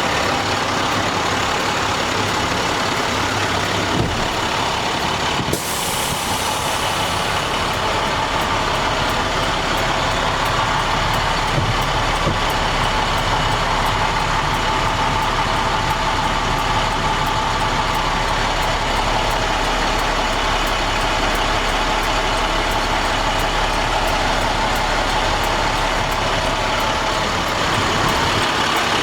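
International MaxxForce DT inline-six diesel engine of a heavy water truck idling steadily, with a short hiss about five seconds in.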